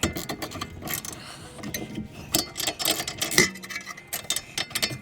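Irregular metallic clicks and clinks of hand wrenches working the rear sway bar link nut, the stud held against spinning while the nut is turned off. The loudest clicks come near the middle.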